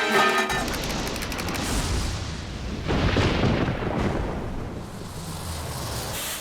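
Cartoon thunder sound effect: a loud rolling rumble that swells at the start and again about three seconds in, then slowly dies away, with music underneath.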